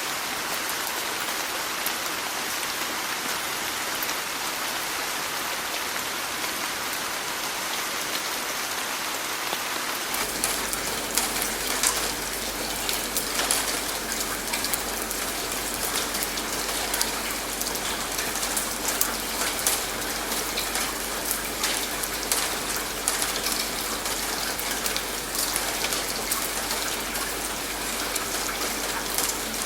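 Steady rain, an even hiss of falling rain. About ten seconds in it turns into a sharper patter of separate drops over a low rumble.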